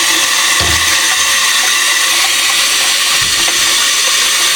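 Water running steadily from a tap, rinsing out a part of a wet/dry floor vacuum, with a couple of dull knocks as the part is handled under the stream.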